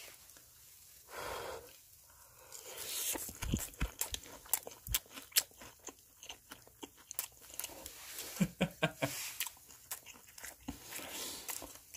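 Loud, irregular crunching of a person biting into and chewing a whole fish grilled so crisp that its skin and bones crunch.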